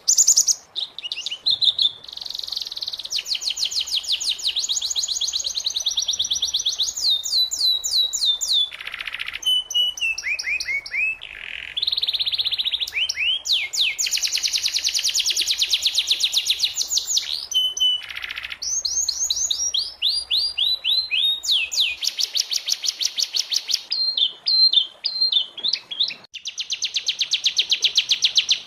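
Domestic canary singing a continuous song. Long, very fast trills of repeated notes alternate with runs of sweeping, up-and-down whistled notes, with only brief breaks between phrases.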